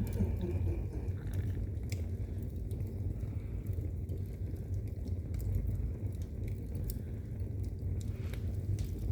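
Wood fire burning in a fireplace: a steady low rumble with scattered faint crackles.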